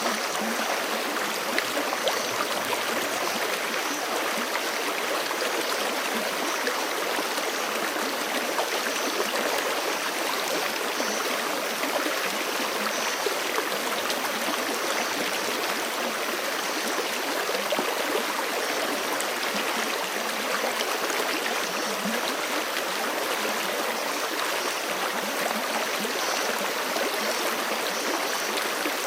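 Forest creek running steadily: a continuous, even rush of flowing water.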